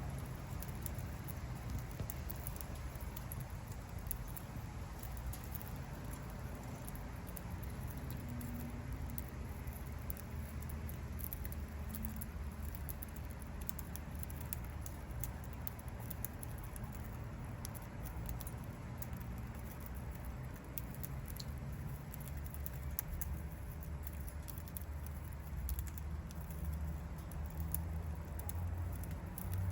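A budgie's beak making many small irregular clicks and scratchy taps as it eats from a hand, over a low steady rumble.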